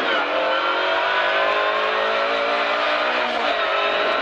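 Skoda Fabia A1400-class rally car's engine under hard acceleration, heard from inside the cabin, rising steadily in pitch through one gear, then dipping at a gear change about three and a half seconds in before climbing again.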